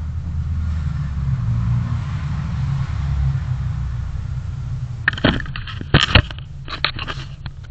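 Low, steady rumble of a car, engine and road noise as a dashcam picks it up. From about five seconds in, a cluster of sharp clicks and knocks comes in as the rumble fades.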